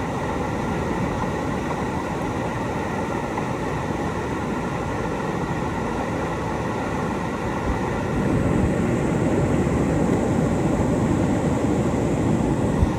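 Steady rush of river whitewater, growing louder about eight seconds in.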